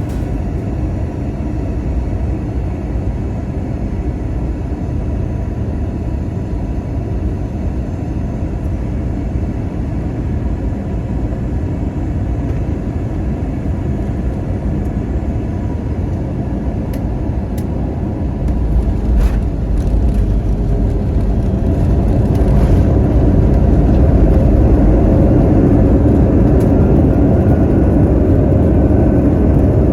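Airbus A321 cabin noise during the landing: a steady roar of engines and airflow. A heavier low rumble comes in about 18 seconds in and grows louder a few seconds later.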